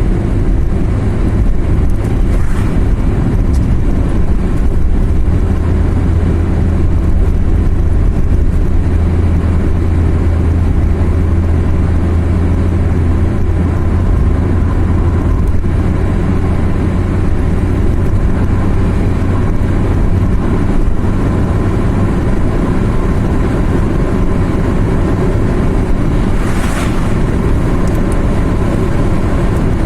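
Car driving along a road, heard from inside: a steady low engine drone with tyre and road noise, and a brief rush of noise near the end.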